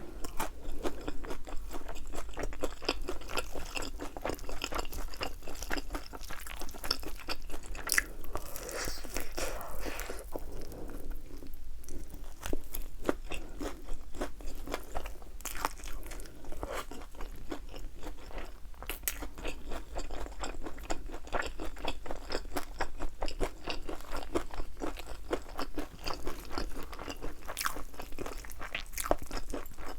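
Close-up crunching and chewing of thin, crispy-battered fried chicken wings, with sharp bite crunches coming thick and fast throughout.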